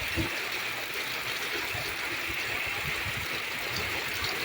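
Steady outdoor ambient hiss, with a few soft low bumps.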